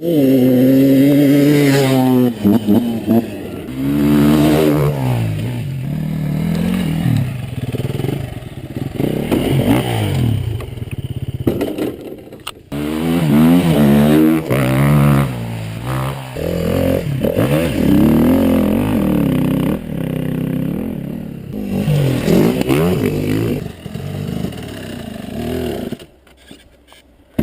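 Off-road dirt bike engines revving up and down over and over, the pitch climbing and falling with each throttle change. They drop away abruptly near the end.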